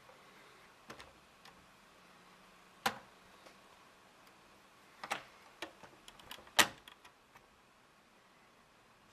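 Irregular sharp plastic clicks and clacks from a Lego rifle mechanism being handled and worked, about a dozen of them, the loudest one about two-thirds of the way through.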